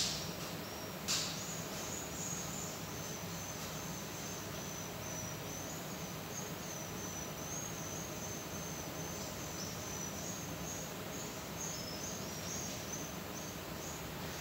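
A continuous high-pitched chirping trill that wavers slightly in pitch, over a steady low hum, with a sharp click at the very start and another about a second in.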